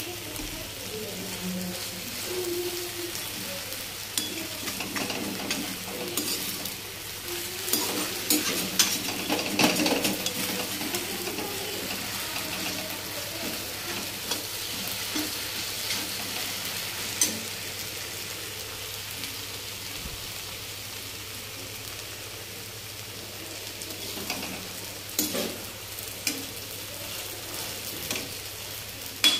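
Sabudana khichdi (sago pearls, potato and peanuts) sizzling in a steel kadhai while a metal spatula stirs it, with scattered scrapes and clinks of spatula on pan. The dish has finished cooking and is still frying on the heat.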